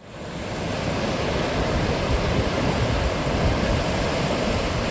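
Steady rushing of sea surf on a beach, with wind rumbling on the microphone; it fades in at the start.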